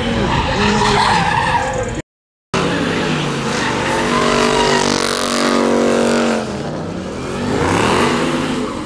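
Car engine revving hard with tires skidding during donuts. The revs are held high, drop off about six and a half seconds in and climb again near the end. The sound cuts out completely for about half a second around two seconds in.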